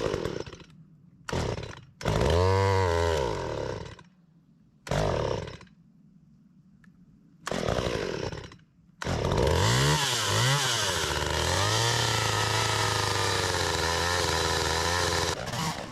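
Stihl MS192T top-handle chainsaw, a small two-stroke, being pull-started just after priming with its repaired primer bulb: it catches briefly and dies a few times, then starts at about the middle, revs twice and settles into a steady idle.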